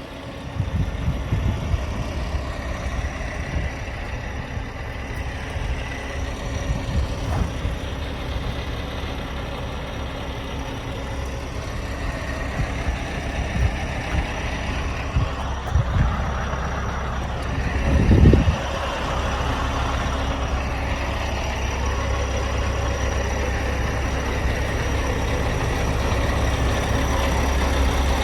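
Scania R520's 16-litre V8 diesel engine idling steadily, with one brief louder low surge a little past the middle.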